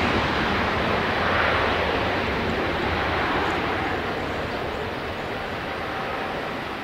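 Jet noise of a Boeing 777-300ER's two GE90-115B turbofans on its takeoff climb, a steady, noisy roar that fades gradually as the airliner moves away.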